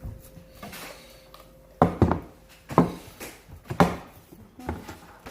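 Dishes and cutlery knocking and clinking as they are handled, about five sharp knocks roughly a second apart from about two seconds in.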